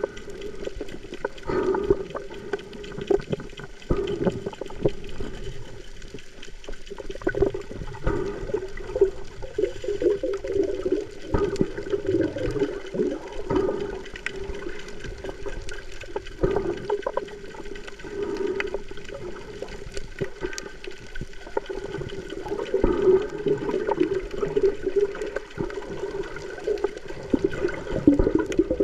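Water sloshing and gurgling close to the microphone, with a steady low hum and scattered crackling throughout.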